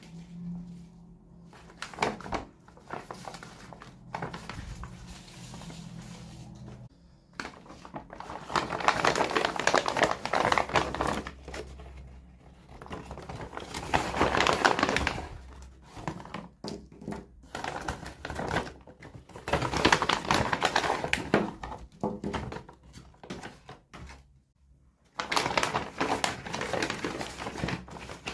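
Plastic toy packaging crinkling and rustling as it is unwrapped, in four loud bursts in the latter part, with scattered clicks and taps between.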